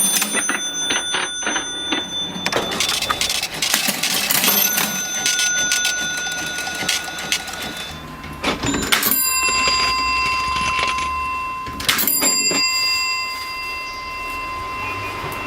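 Vintage mechanical cash register being worked: keys and levers clatter, and its bell rings about four times, each ring lingering for a few seconds.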